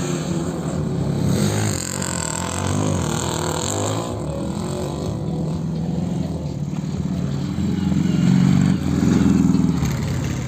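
Motocross motorcycle engines running and revving, rising and falling in pitch, loudest about eight to nine seconds in.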